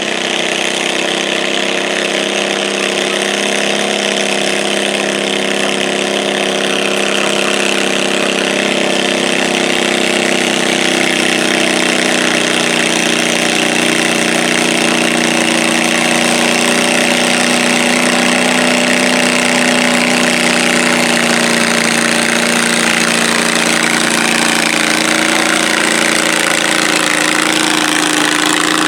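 Garden pulling tractor's engine running steadily at a constant speed, its pitch drifting only slightly and its level rising a little over the first several seconds.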